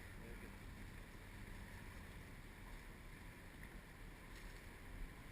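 Faint, steady low rumble and hiss of background wind and water.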